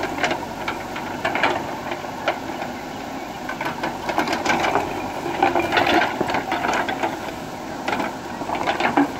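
Diesel earthmoving machine at work: irregular metallic clanks, knocks and rattles over the steady low running of its engine.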